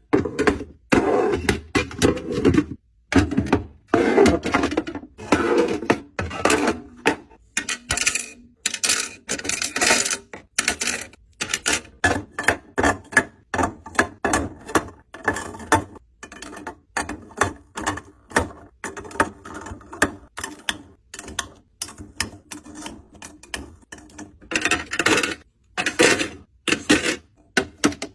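Objects being handled: an irregular run of sharp clicks and taps, with fuller rustling in the first several seconds and again near the end.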